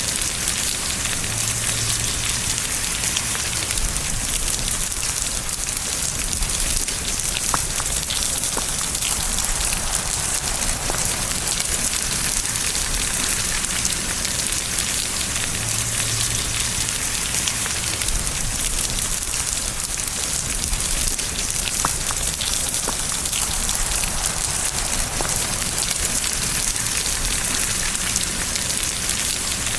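Steady rain falling, a dense even patter with an occasional louder single drop.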